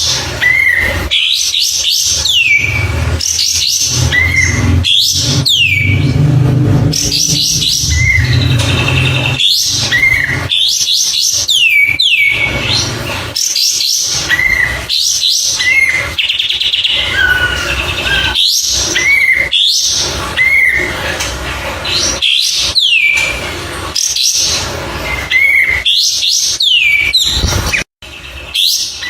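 A songbird singing the same short phrase over and over, every couple of seconds: quick whistles sliding steeply down in pitch, followed by short clipped notes. The song breaks off for a moment near the end.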